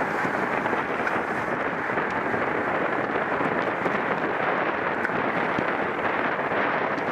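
Steady rush of wind noise buffeting a camera microphone at racing speed in a bicycle criterium, with no breaks or changes.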